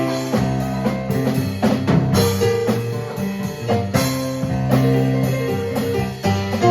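Live band music: drum kit and keyboard playing a song together, with sharp drum hits over sustained keyboard chords.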